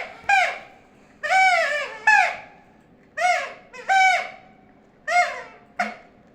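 Pet parrot giving repeated squeaky, horn-like honks, mostly in pairs of a longer call followed by a shorter one, each rising then falling in pitch.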